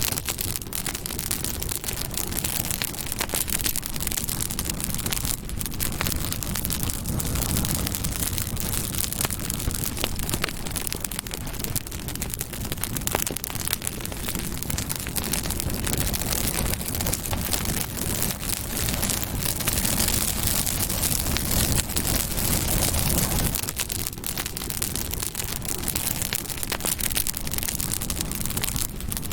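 Campfire burning, with dense crackling and small pops over a steady rushing hiss.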